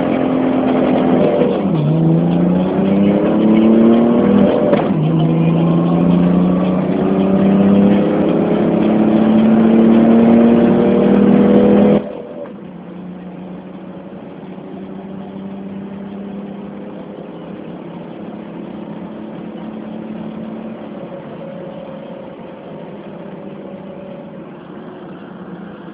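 BMW E34 525tds's turbodiesel straight-six accelerating hard through the gears, its pitch climbing and dropping at upshifts about 1.5 and 5 seconds in, then rising slowly through a long pull. About 12 seconds in the sound drops sharply to a much quieter, steadier engine drone.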